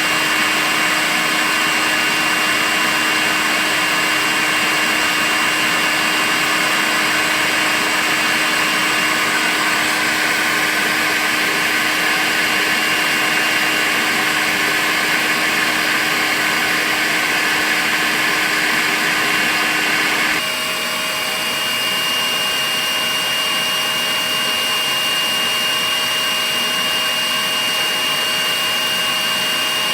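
Makita cordless vacuum cleaner running steadily: a continuous motor whine over a rushing hiss of air. About two-thirds of the way through, the whine abruptly changes pitch and the sound becomes slightly quieter.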